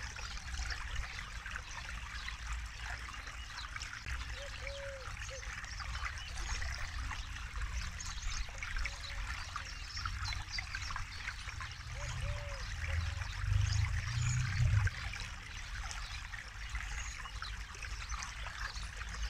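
Forest river flowing and trickling steadily. A bird's short, low call repeats every few seconds, and a low rumble swells briefly just past the middle.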